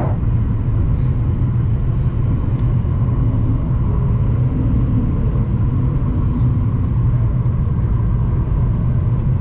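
Steady low rumble of a Boeing 737 MAX 9 airliner as heard in the cabin, engine and airflow noise unchanging throughout.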